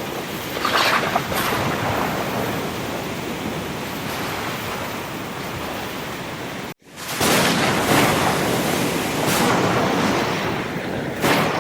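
Ocean surf: a continuous wash of waves, with breakers surging about a second in and again several times in the second half. The sound drops out for an instant just before the halfway point, then the surf returns.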